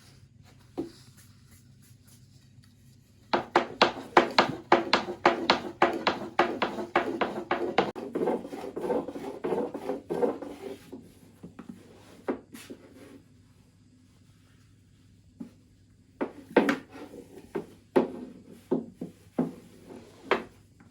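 Quick, repeated knocks on wood, several a second for about seven seconds, then a few scattered knocks near the end: hand work on a wooden kitchen surface during pastry making.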